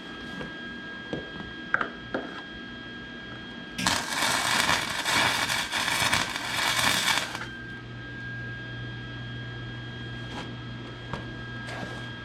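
A few light clicks of metal being handled, then an arc welder running a weld bead for about three and a half seconds with a loud, steady crackle. A low hum carries on after the weld stops.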